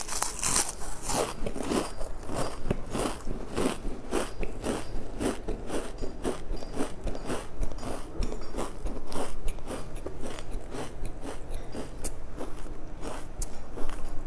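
A person chewing crunchy crisp snacks close to the microphone, a steady run of crunches about three a second.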